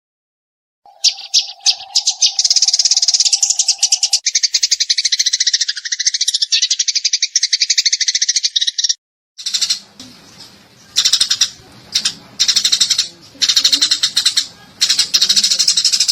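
Eurasian tree sparrows chattering in rapid-fire chirps. A dense, unbroken run of chirps for about eight seconds, a brief break, then repeated short bouts of fast chirping.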